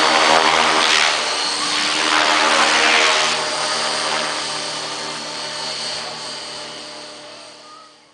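600-size RC helicopter in flight: the steady whine of its motor and rotor head with a high steady tone, and the rotor blades swelling in whooshes about a second in and again around three seconds. The sound then fades away steadily through the last few seconds.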